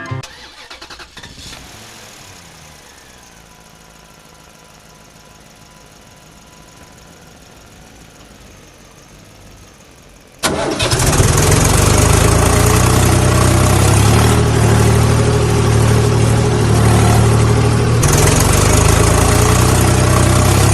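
A tractor engine comes in abruptly about halfway through and then runs steadily with a deep, even rumble. Before it there are only faint, quiet tones.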